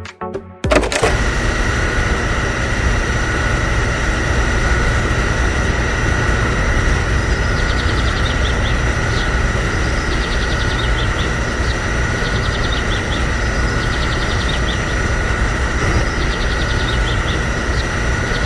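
A small motor running steadily with a constant whine, starting about a second in and cutting off near the end, with faint rapid ticking in the second half.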